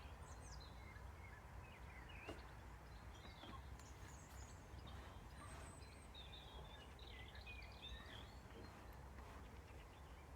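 Near silence: faint birds chirping in the background over a low steady hum.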